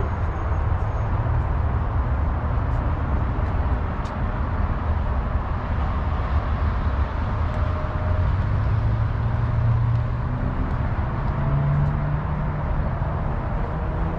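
Falling water splashing down in a continuous steady rush.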